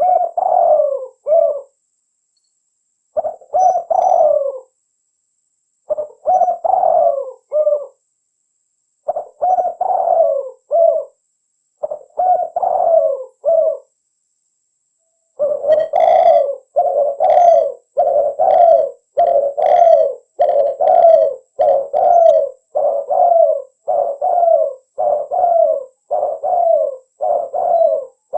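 Spotted dove cooing. For the first half it gives short phrases of a few coos, a second or so of silence apart, then from about halfway it coos in an unbroken run, roughly one coo a second.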